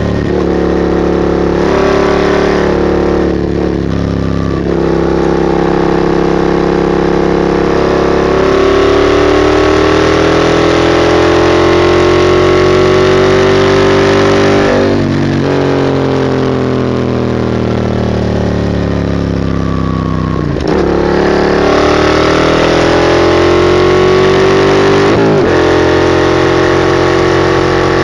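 Yamaha MT-07's parallel-twin engine through a straight-piped Mivv GP exhaust, ridden hard: the engine note climbs and drops with the throttle, with a long rising pull in the middle and a slow falling note after it. Several quick gear changes break the sound along the way.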